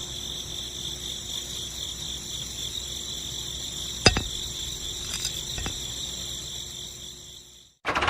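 Crickets chirring steadily in a high, slightly pulsing trill, with a sharp click about four seconds in; the sound cuts off suddenly just before the end.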